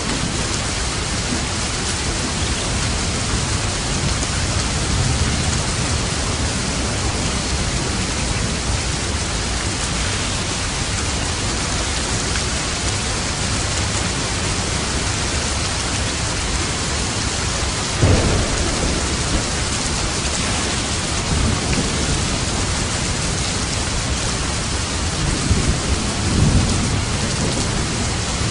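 Steady rain falling, with a low rumble of thunder breaking in about eighteen seconds in and another rolling near the end.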